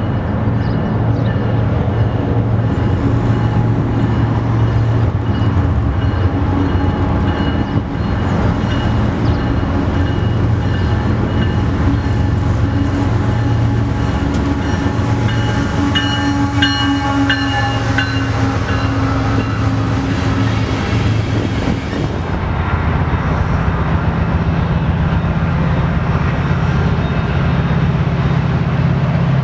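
Diesel-hauled Canadian Pacific freight train approaching and rolling past, locomotive engine running with wheel and rail noise, and a brief cluster of high ringing tones about halfway through. A little past two-thirds of the way in, the sound changes abruptly to a steadier, deeper rumble as a Metra commuter train comes up.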